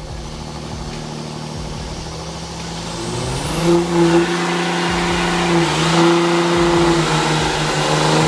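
Motor vehicle engine held at high, steady revs, growing louder about three seconds in, with a loud hissing rush over it.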